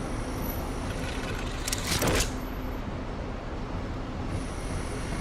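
Steady rumbling background noise with a brief louder whoosh about two seconds in.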